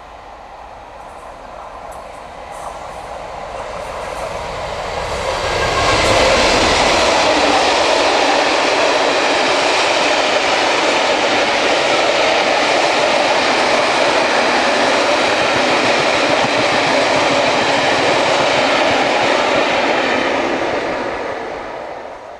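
Train passing close by: the noise builds over the first six seconds into a loud, steady rush of wheels and engine, then falls away quickly near the end.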